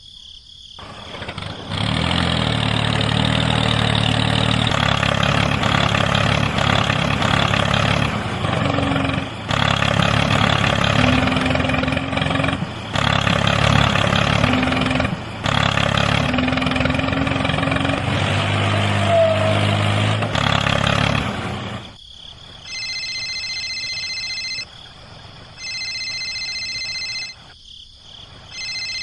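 A motor running with a steady low drone and noise, cut off abruptly for a moment several times, then stopping about twenty seconds in. After that comes a repeated electronic beeping tone, about two seconds on and one second off.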